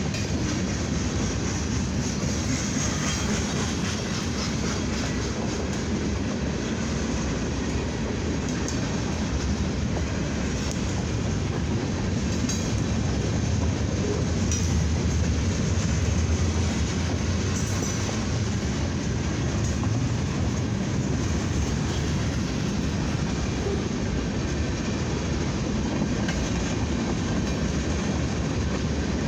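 Freight cars (tank cars and covered hoppers) rolling past: a steady, low sound of steel wheels on rail, with occasional clacks as the wheels pass over rail joints.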